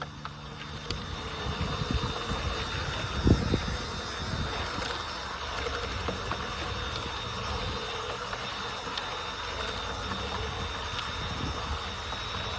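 Battery-powered G-scale model rail bus running along garden track: a steady small electric motor hum with wheel noise. A short low thump comes about three seconds in.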